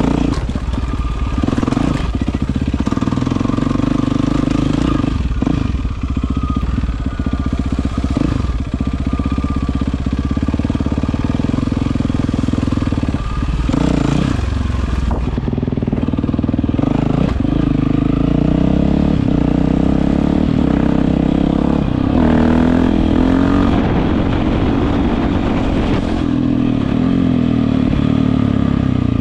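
Yamaha WR450F single-cylinder four-stroke dirt bike engine running through an Akrapovič exhaust under varying throttle, with several quick drops and rises in pitch in the first half and steadier running later.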